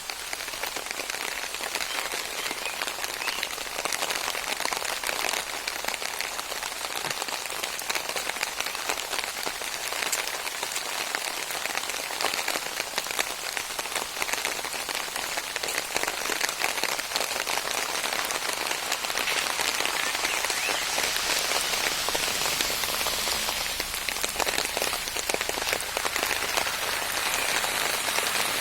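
Steady rain falling, a dense patter of countless drops hitting surfaces, growing a little heavier in the second half.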